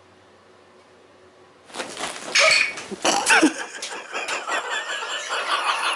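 A house cat startled by a stuffed bobcat: after a quiet start, a sudden loud burst of scrambling noise about two seconds in, with a short falling cry. Then people laughing and talking.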